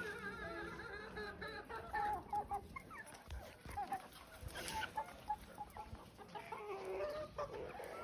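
A flock of desi chickens clucking steadily while they feed on scraps of roti, many short overlapping calls, with a few sharp taps mixed in.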